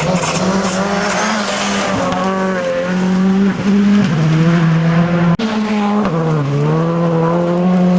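Rally car engine running hard at high revs, its pitch stepping down at gear changes and dipping then climbing again near the end.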